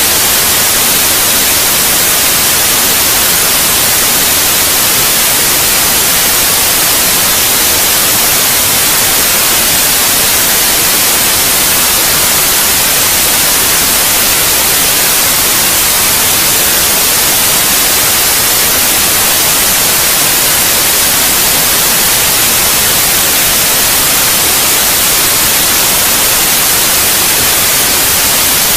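Steady white noise: a loud, even, unchanging hiss across the whole range, brightest in the treble, played as a sleep sound for babies.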